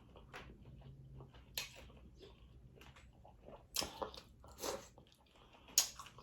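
A person eating seafood close to the microphone: quiet chewing and biting, with several short sharp cracks or clicks, the loudest about four and six seconds in.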